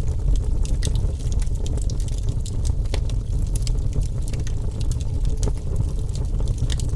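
Wood fire burning with a steady low rumble and many sharp, irregular crackles and pops of burning wood.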